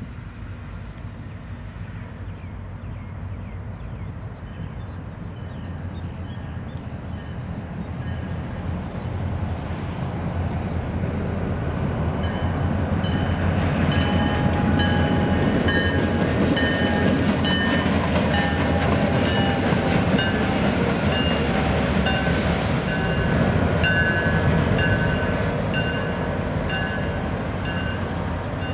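CSX freight train passing: the low rumble of its diesel locomotives grows steadily louder over the first half, then the train rolls by loud with wheel-on-rail noise and short, repeated high-pitched metallic squeals from the wheels. It eases off slightly near the end.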